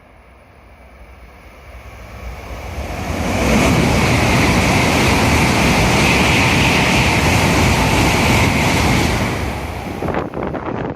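Shinkansen bullet train passing through a station at high speed without stopping. The rush of air and wheels builds over about three seconds, holds loud for about six, then falls away, with wind buffeting the microphone near the end.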